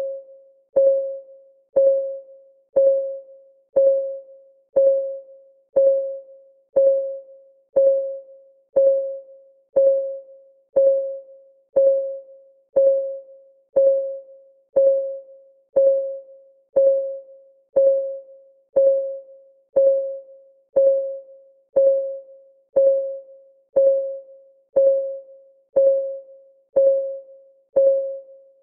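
Clock ticking for a countdown timer, steady at one tick a second. Each tick is a short click that rings briefly at a single mid pitch.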